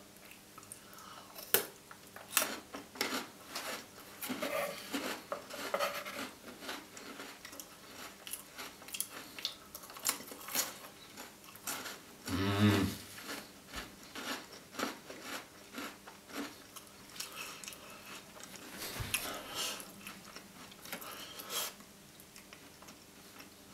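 Close-miked chewing of a chocolate-coated Tim Tam biscuit: irregular wet mouth clicks and smacks, with a brief hummed "mm" about twelve seconds in.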